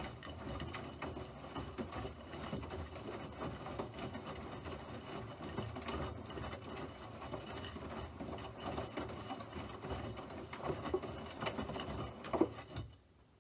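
Rapid, steady mechanical clattering from a small running machine, over a low hum, stopping abruptly near the end.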